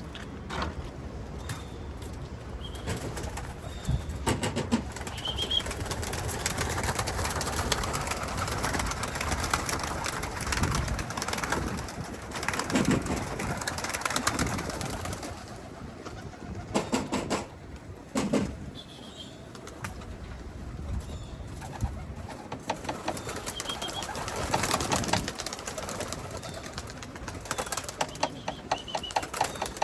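Cumulet pigeons cooing in a coop, among many sharp clicks and rustles.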